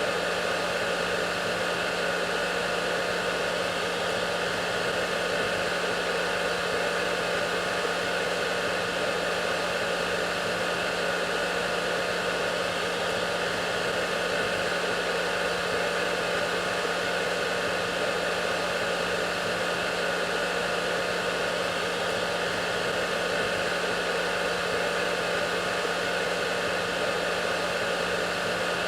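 Hair dryer running steadily: an even rushing noise with a constant motor hum, unchanging throughout.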